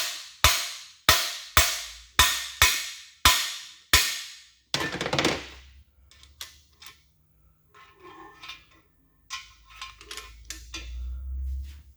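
Hammer blows ringing on a cam bearing installer, about eight strikes roughly half a second apart, driving a cam bearing into the cam bore of a Chevy 283 small-block. The hammering is followed by a longer scraping sound, then light metal clatter of the tool being handled.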